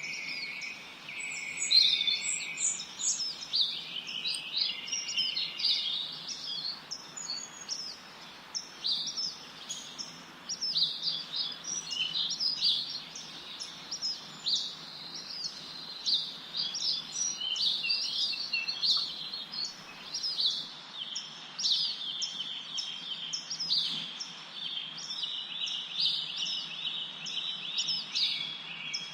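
Songbirds singing and chirping, many short notes and trills overlapping throughout, over a faint steady low hum.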